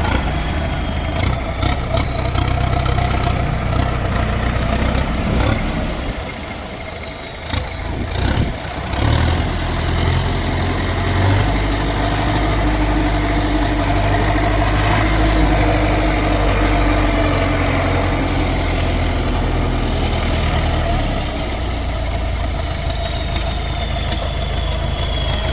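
Heavy diesel vehicle engines running, with a few sharp knocks in the first seconds. The engine sound dips briefly, then comes back stronger and holds before easing near the end. A thin high whine rises and slowly falls over it.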